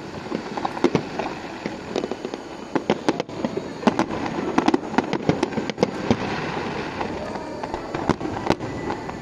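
Fireworks display: many sharp bangs in quick, irregular succession over a steady crackling haze, densest about three to six seconds in.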